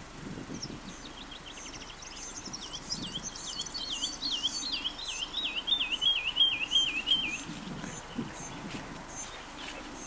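Songbird singing: a series of repeated looping notes, about three or four a second, growing louder and then stopping about seven seconds in. Another bird gives short high chirps throughout.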